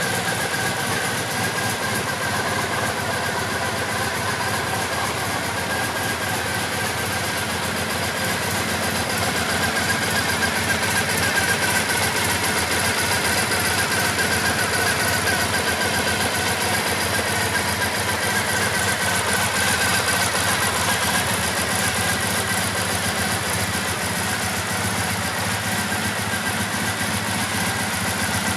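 Triumph Bonneville T100's 865 cc air-cooled parallel-twin engine idling steadily, a little louder from about ten seconds in.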